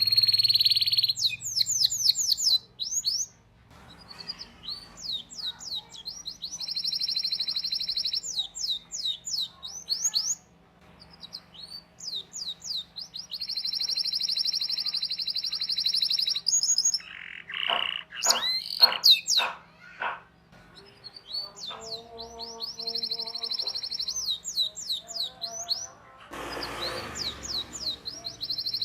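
Domestic canary singing a long song: runs of quick falling chirps alternate with long, rapid rolling trills, and a few louder wide sweeping whistles come near the middle.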